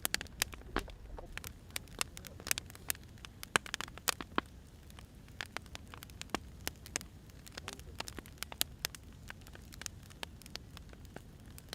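Burning firewood crackling, with irregular sharp pops and snaps, several a second at times, over a steady low rumble of the fire.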